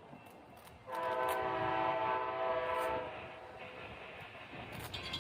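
Amtrak locomotive horn sounding one steady chord for about two seconds, starting about a second in, then dying away.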